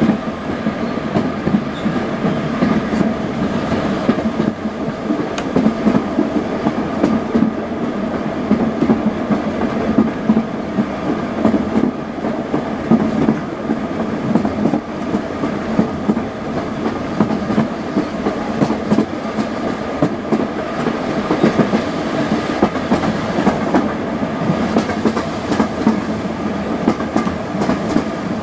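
Steady running noise of a moving railway carriage heard from inside its compartment: wheels rumbling on the track with a clickety-clack of rail joints.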